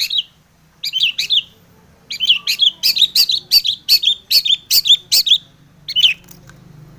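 Long-tailed shrike (cendet) calling: short, harsh, down-sweeping notes, a few at first, then a quick run of about two or three a second for several seconds, and one more near the end.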